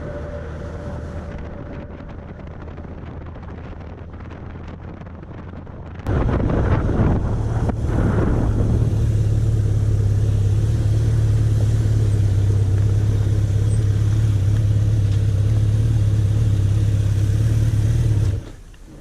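1991 Suzuki GSX1100F motorcycle engine running steadily, with a low, even hum. It turns much louder about six seconds in and stops abruptly near the end. The last notes of mallet-percussion music fade out at the start.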